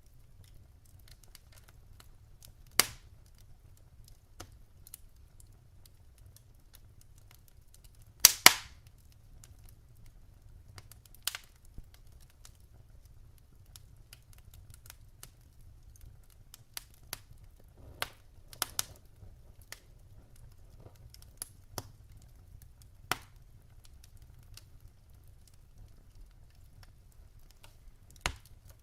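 Wood fire crackling in a fireplace: scattered sharp pops and snaps over a low steady rumble, the loudest a quick double pop about 8 seconds in.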